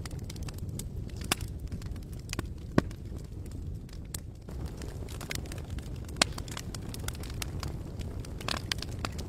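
Wood campfire crackling: irregular sharp pops over a steady low rumble, with the loudest pops about three seconds in and again just past six seconds.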